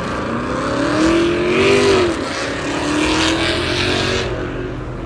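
A car engine revving with loud exhaust: the pitch climbs and then drops off about two seconds in, followed by a second, shorter rev that fades about four seconds in.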